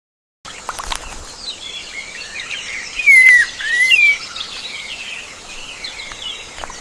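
Birds chirping and whistling together, starting about half a second in, with two loud swooping whistles about three and four seconds in and a few short taps among the calls.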